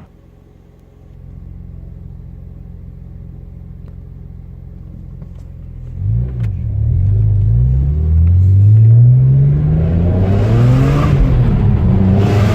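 BMW E46 M3's straight-six breathing through a Topgear exhaust backbox. It idles quietly and steadily at first, then about six seconds in the exhaust note turns loud and climbs in pitch as the engine is opened up, with a brief dip near ten seconds before it climbs again.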